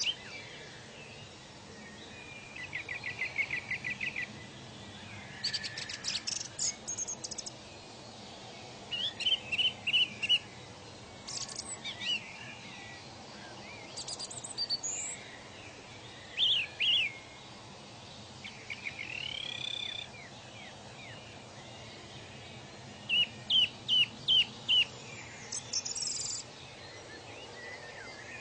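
Birds singing: short chirping and trilling phrases of varied shapes, a new one every couple of seconds, over a steady low hiss.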